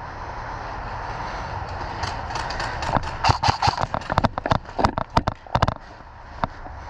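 Airsoft guns firing a rapid, irregular string of sharp shots, about two dozen in quick clusters, starting about two seconds in and stopping shortly before six seconds.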